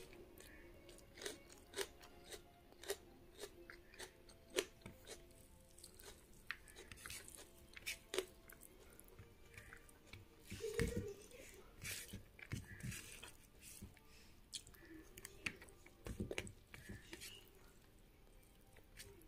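Close-up mouth sounds of someone eating rice and vegetables: chewing with wet smacks and crisp clicks at irregular intervals, along with fingers mixing rice on a plate. A few duller knocks come about halfway through and again later.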